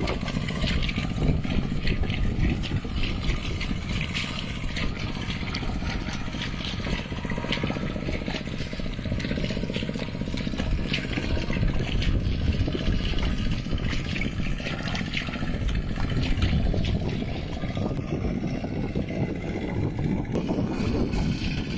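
Mini tractor engine running steadily while plowing a mud field, with a dense rapid clatter over it.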